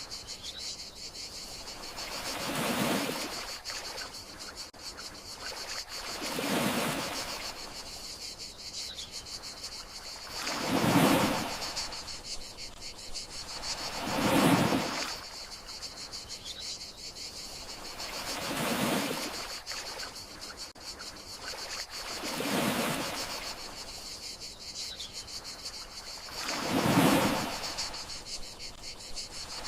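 Gentle sea waves washing in, a rushing swell about every four seconds, over a steady high trill of crickets.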